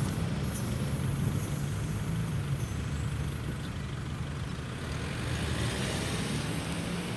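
Steady low engine rumble of a passing vehicle, with a deep hum running throughout.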